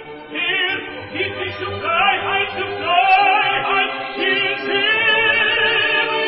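Operatic tenor singing with a wide vibrato over orchestral accompaniment.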